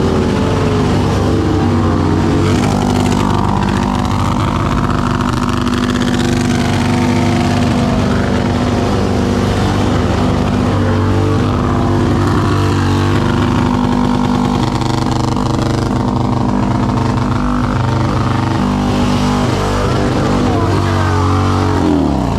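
Motorcycle engines running steadily at low speed, with a dip and rise in engine pitch near the end, under the voices of people nearby.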